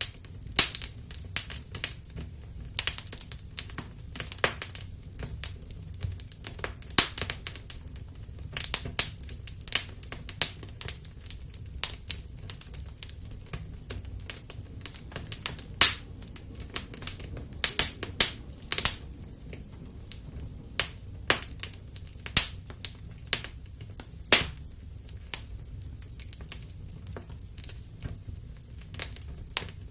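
Wood fire burning in a fireplace: irregular sharp crackles and pops, several a second, over a steady low rumble of flame.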